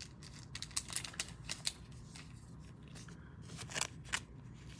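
Trading cards and their packaging being handled: a quick run of short, crisp scrapes and clicks in the first couple of seconds, then a few more near the end.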